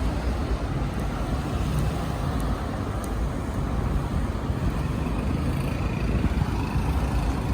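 Steady low rumble of strong wind buffeting the microphone, mixed with the wash of sea surf.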